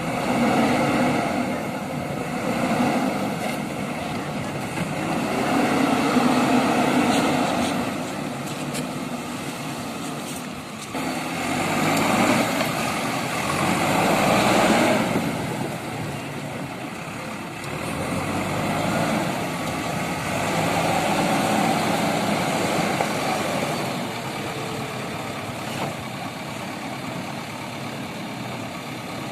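JCB 3DX backhoe loader's diesel engine running, its sound swelling and easing every few seconds.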